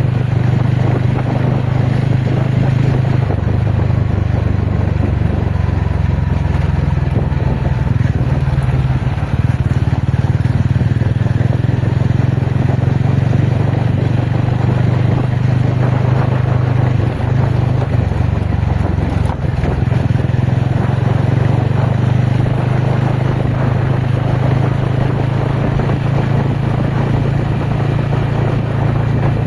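Ronin motorcycle engine running steadily under way off-road, its note stepping up and down a few times with throttle and gear changes, over a steady rushing noise.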